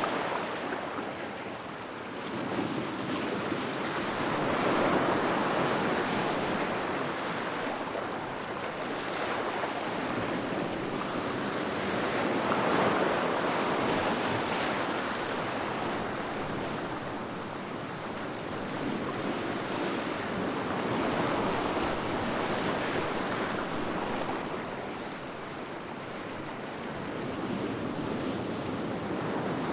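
Sea waves breaking and washing on a shore, a steady surf noise that swells and subsides every several seconds, with some wind.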